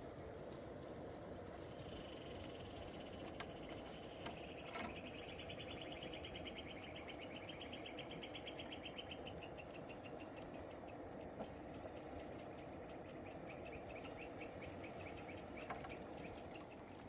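Outdoor mountain ambience: a steady low rushing noise, with small birds giving short high chirps again and again. Over it runs a fast, pulsing trill that builds through the first half and fades out near the end.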